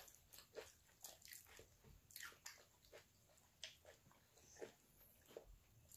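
Faint chewing while eating french fries: soft mouth clicks and smacks, scattered irregularly.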